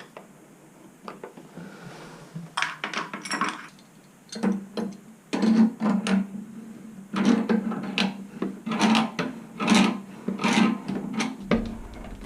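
Tools scraping and clicking irregularly against a Moen 1225 shower valve cartridge as it is worked loose after its retaining pin is out.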